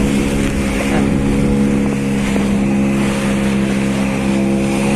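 Motorboat engine running at a steady speed, with a constant hum and a rush of wind and water over it.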